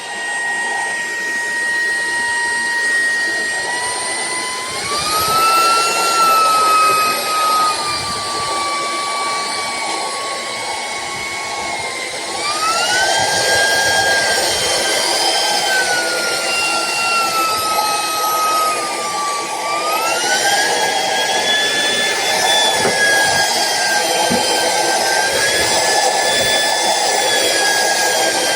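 Shark PowerDetect cordless stick vacuum running with a steady rush of air and a motor whine. The whine rises in pitch three times, about five, twelve and twenty seconds in, and sinks slowly in between.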